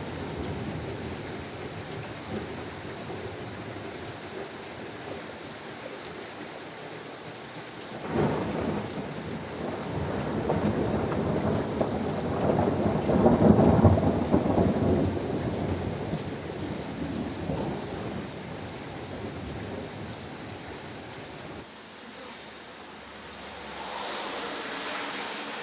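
Thunder rolling over steady rain: the rumble breaks in about eight seconds in, builds to its loudest a few seconds later and dies away slowly.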